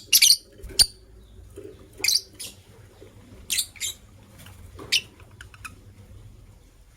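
White lovebird giving short, shrill, high-pitched chirps, about six in five seconds, some in quick pairs.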